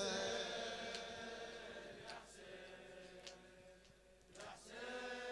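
Latmiya lamentation chant dying away: a held chanted note fades down over the first few seconds, and about four seconds in a fainter new long chanted note begins.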